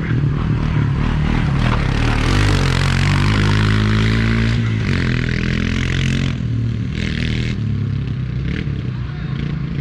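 Farm quad bike engine revving as the quad accelerates, its pitch rising early on, holding, then dropping off after about six seconds, with bursts of rushing noise over the engine.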